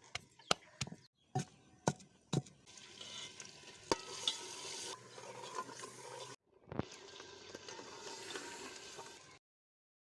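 A cooking spoon knocks against the pot about five times, then food sizzles steadily in the pan while it is stirred, breaking off briefly twice.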